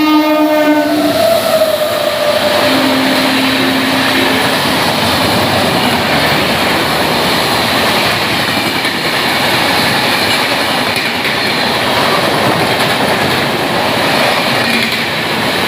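An express train hauled by a WAP-7 electric locomotive passing at high speed: the locomotive's horn ends about a second in, a second horn note sounds briefly around three to four seconds in, and then the steady rushing of the train's coaches goes on.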